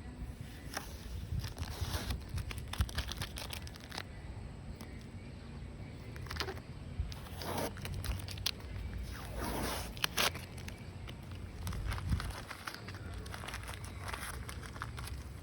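Scattered rustling, crackling and clicks over a low rumble, with a few louder rustling swells about halfway through.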